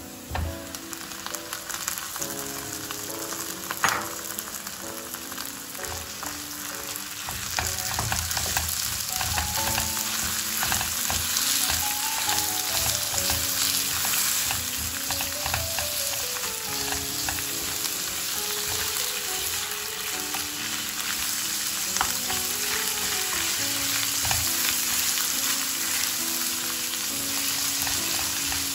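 Minced meat and onions sizzling as they fry in a nonstick frying pan, stirred with a wooden spoon; the sizzle grows louder about seven seconds in as the meat heats. A knock about four seconds in, and a soft background melody underneath.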